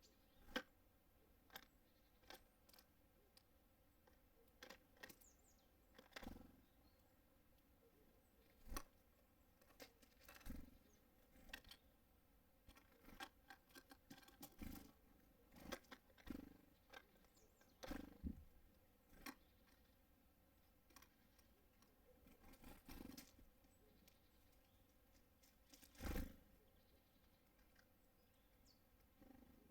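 Small birds at a wooden feeder close to the microphone: irregular taps, knocks and light thumps as they land, hop about and peck at the seed, every second or two, with faint quiet between.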